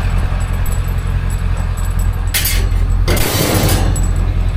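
Vehicle engine idling steadily with a low rumble. There are two brief handling noises about halfway through.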